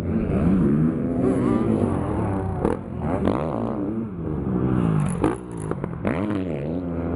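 Several motocross bike engines revving, their pitches rising and falling over one another as the throttles open and close, with a few sharp knocks.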